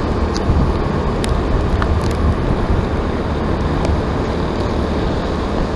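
Steady low rumbling noise of a running vehicle, with a few faint clicks.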